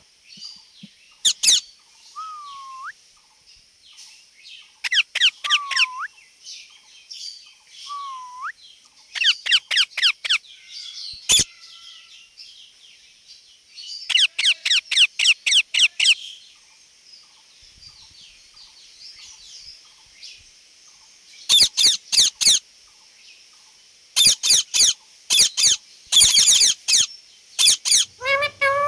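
Indian ringneck parrot calling in bursts of rapid, high-pitched notes, each run lasting a second or two and separated by short pauses, with a few short curved whistles in the first third.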